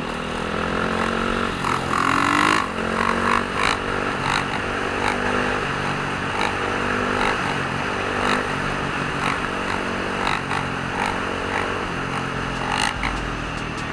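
Dirt bike engines running and revving, with one rev rising in pitch about two seconds in.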